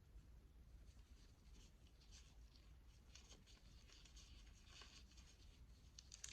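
Gloved hands handling and working on a string of prayer beads: soft, close-up scratching and rubbing strokes, with a sharper light click near the end.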